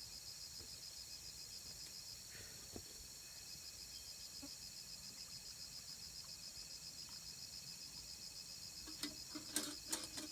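Insects chirping in a steady, rapid, high-pitched pulsing trill that eases briefly about two seconds in. Near the end come a few sharp clicks or knocks.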